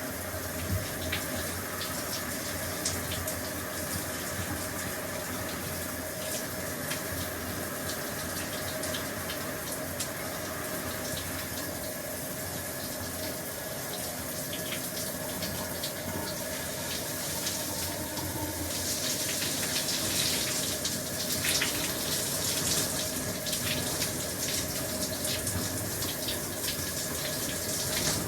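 Shower running, water spraying and spattering steadily, with many fine droplet ticks. About two-thirds of the way in the spray turns brighter and a little louder.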